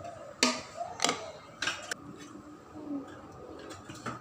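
A spoon knocking against a cooking pot a few times while rice is spread in layers, the knocks coming within the first two seconds.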